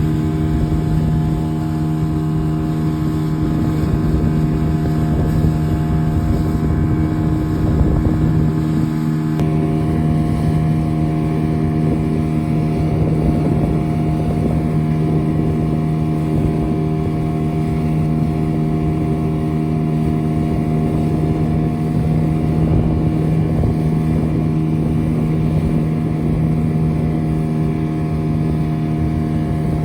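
Motorboat engine running at a steady speed, one unchanging engine note, with wind rumbling on the microphone.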